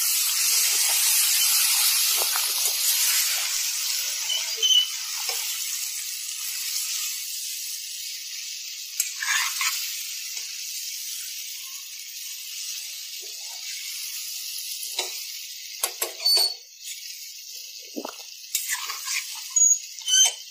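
Half-boiled jackfruit pieces sizzling in hot oil in a metal pot, the sizzle slowly dying down. A metal spoon stirring them scrapes and knocks against the pot now and then, most often near the end.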